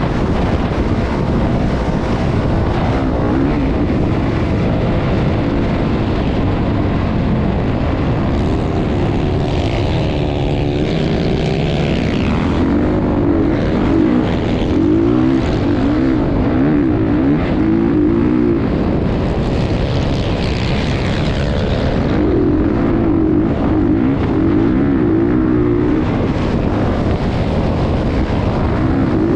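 Motocross bike engine running hard, its pitch rising and falling again and again as the throttle opens and closes, with wind rumbling on the microphone.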